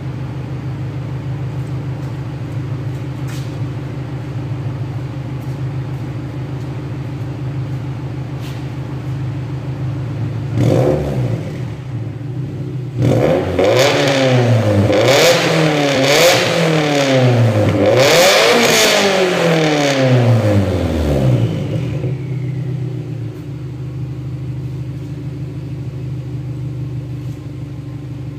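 Subaru Impreza STI's turbocharged flat-four boxer engine idling steadily, blipped once, then revved hard several times in quick succession before settling back to idle.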